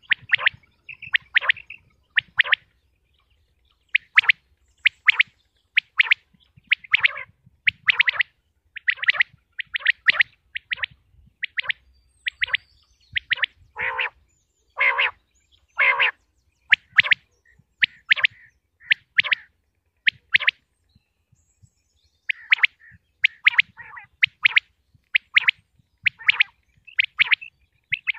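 Common quail (batair) calling over and over: short, sharp notes in quick groups of two or three, the groups about a second apart, with one longer pause about three quarters of the way through.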